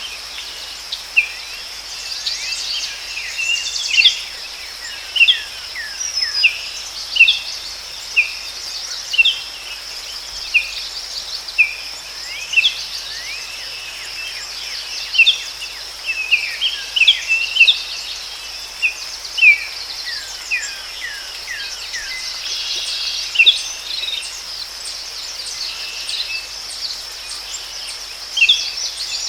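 Forest ambience: birds chirping in short, quick calls about once a second over a steady, high-pitched drone of insects.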